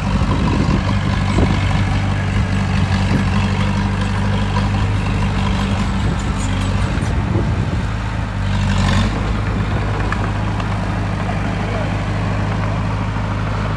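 Heavy diesel engine of earthmoving machinery running steadily under load, with a brief hiss about two-thirds of the way through.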